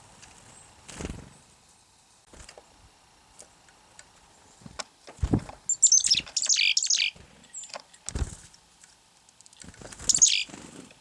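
Small feeder birds calling close by: a burst of rapid high chattering calls about six seconds in and a shorter burst near the end, with a few soft thumps in between.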